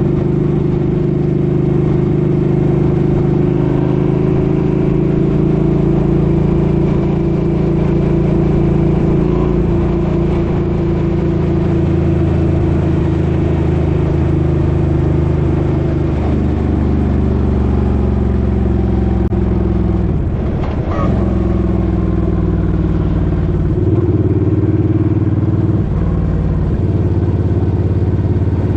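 Suzuki Boulevard M50's 805 cc V-twin engine running under way, its pitch falling and rising through a gear change about two-thirds of the way in, then shifting again near the end.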